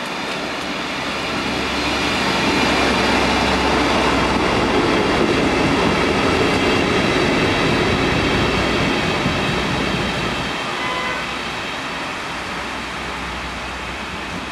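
Three-cylinder A4 Pacific steam locomotive with its train passing at speed, the sound swelling to its loudest in the middle and easing off towards the end.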